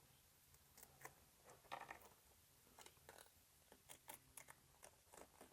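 Near silence, broken by a dozen or so faint, short clicks and crinkles of handling, irregularly spaced, over a faint low hum.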